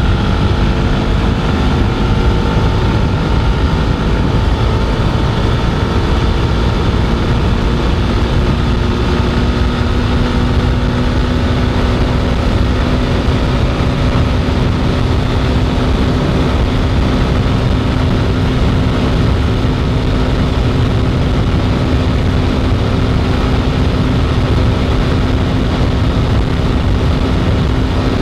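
Jawa 42 motorcycle's single-cylinder engine running steadily at highway speed, its pitch easing slightly lower in the first few seconds and then holding. Heavy wind rushes on the microphone throughout.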